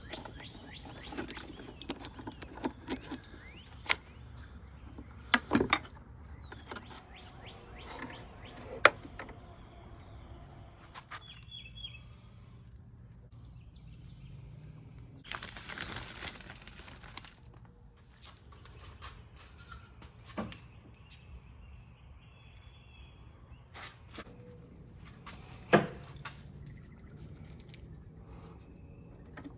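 Scattered metallic clicks, clinks and knocks of hand tools and parts being handled, with a few sharper single knocks and a short hiss-like noise partway through.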